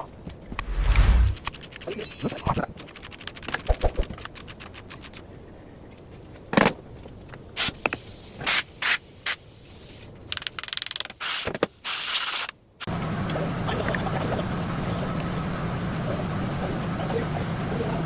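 Workshop tool work: scattered clicks, scrapes and sharp metallic knocks, then about two-thirds through a steady machine noise with a low hum starts suddenly and keeps going.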